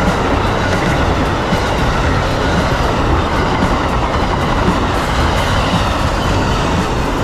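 Amtrak passenger train rolling past at speed: a loud, steady rumble of wheels on the rails.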